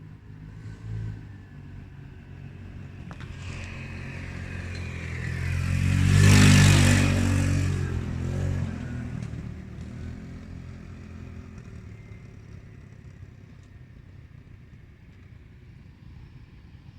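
Jet airliner passing close by. Its engine noise swells to a loud peak about six seconds in and then fades away, with the pitch sliding down as it passes.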